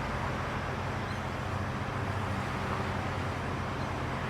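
Steady low engine hum of an idling vehicle, with a constant background hiss.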